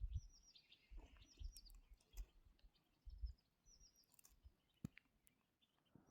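Faint bird calls: short, high chirps in quick groups of two or three, repeating every second or so, with a few faint low thuds.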